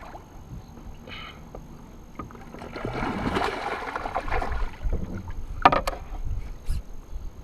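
Water splashing beside a kayak as a hooked largemouth bass is fought, swelling for a couple of seconds about three seconds in. Two sharp knocks follow, then low handling thumps against the hull.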